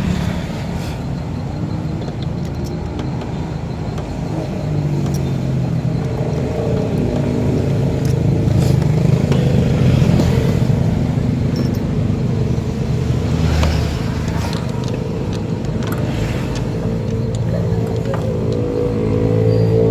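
Honda Fit's four-cylinder engine running, its revs rising about a quarter of the way in and again near the end, with a few light knocks over it.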